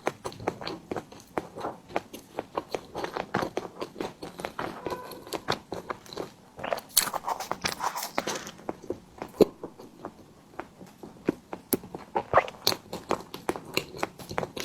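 Close-miked eating sounds: a person biting and chewing a tiger skin dessert, a dense run of small mouth clicks and smacks, with a louder noisy stretch about seven to eight seconds in.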